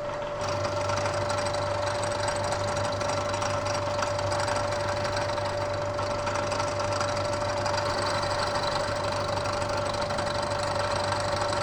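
Bridgeport vertical milling machine running with a steady whine while an end mill takes a light cleanup cut along the side of a metal block. The sound fills out slightly about half a second in and holds steady.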